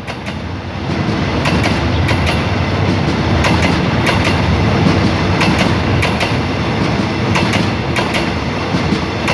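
Passenger coaches of an express train rolling past at speed: a steady rumble of steel wheels on the rails with scattered sharp clacks as the wheels cross the track joints. It swells about a second in.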